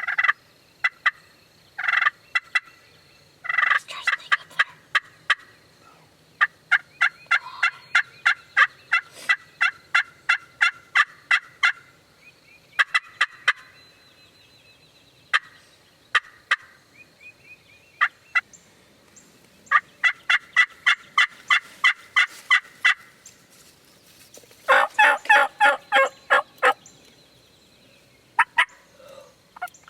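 Wild turkeys yelping: several runs of short, sharp, evenly spaced notes, about three to four a second, with the loudest run near the end.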